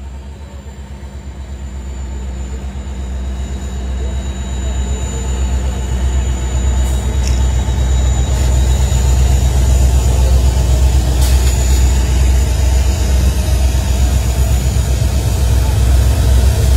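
Train pulling out of the station: a low locomotive rumble that builds steadily louder over the first several seconds, then holds steady.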